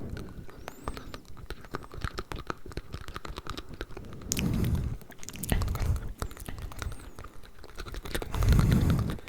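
Layered ASMR mouth sounds close to the microphone: a dense run of wet clicks and smacks, with three louder, deeper muffled bursts about halfway through and near the end.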